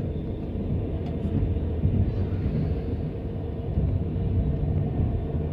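Steady low rumble inside a Russian platzkart sleeper carriage, with a faint hum running under it.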